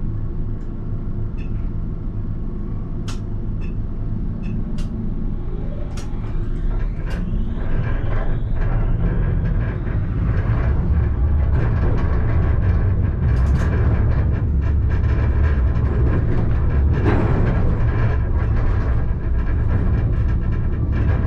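Alstom Citadis electric tram running, heard from the driver's cab, with a heavy low rumble of wheels on rail. A rising electric motor whine climbs as it accelerates in the first half, and the rumble grows louder. A few sharp clicks come in the first seven seconds.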